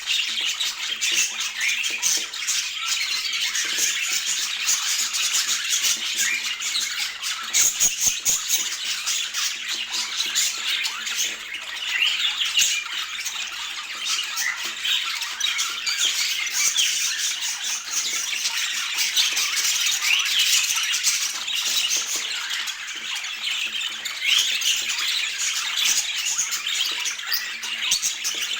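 Budgerigars chattering continuously: a dense, overlapping mix of short chirps, warbles and squawks from several birds at once.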